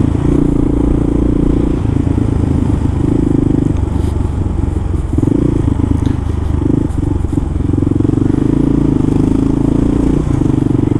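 Kawasaki KLR650's single-cylinder four-stroke engine running steadily under way, heard from on the bike.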